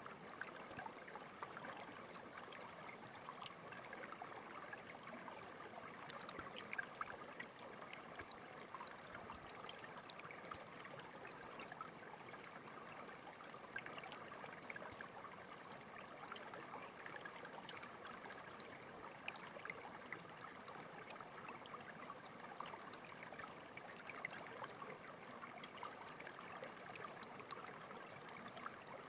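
Small stream of clear water running and trickling steadily, faint, with many small splashes and plinks over a constant babble.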